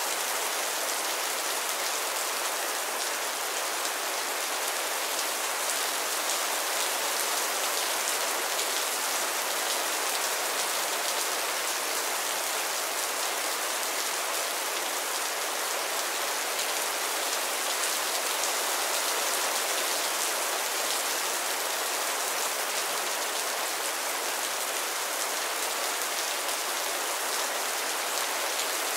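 Heavy rain falling steadily: a dense, even hiss of many drops that does not let up.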